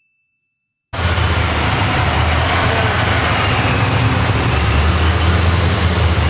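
A second of dead silence, then about a second in a loud car engine and exhaust cuts in and runs steadily and close, with a deep low drone under a broad rushing noise.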